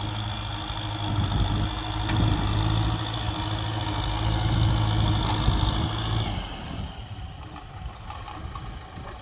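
Heavy diesel engine of a working tractor or dump truck running steadily and loud. It drops to a quieter level about six seconds in.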